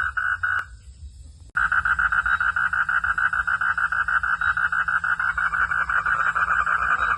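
Frogs calling in a rhythmic pulsed chorus, about four calls a second. The chorus breaks off about a second in and then comes back abruptly with faster, denser calling.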